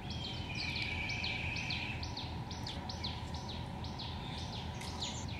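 Birds calling: a short falling chirp repeated about four times a second, with a held whistle lasting about a second and a half near the start, over a steady low background noise.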